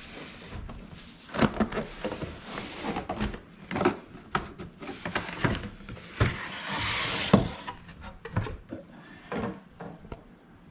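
Cardboard box being opened and its packing handled: a series of knocks, clicks and rustles, with a longer scraping rustle about six to seven seconds in.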